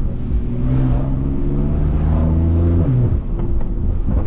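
BMW S55 twin-turbo inline-six in an F80 M3, straight through catless downpipes and an open valved axle-back, pulling with the engine note climbing slowly. Just before three seconds in the revs drop sharply off throttle, with a few faint crackles before it settles into a lower, steadier note.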